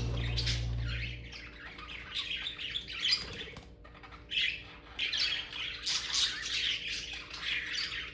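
Budgerigars chirping and chattering: many quick, scratchy calls one after another. Background music fades out about a second in.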